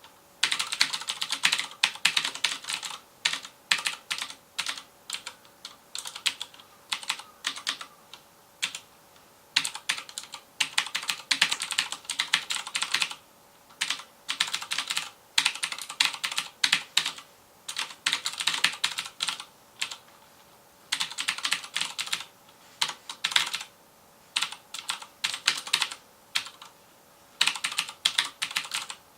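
Fast typing on a FILCO Majestouch Convertible 2 mechanical keyboard with Cherry MX Blue switches: dense runs of sharp clicking keystrokes in bursts of a second or two, broken by short pauses.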